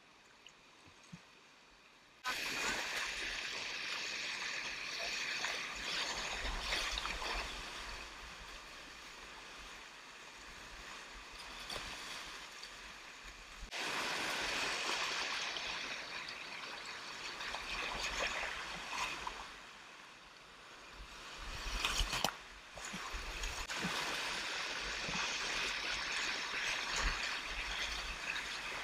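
River rapids rushing and splashing around a whitewater kayak, cutting in suddenly about two seconds in, then swelling and fading with a sharp splash a little after the middle.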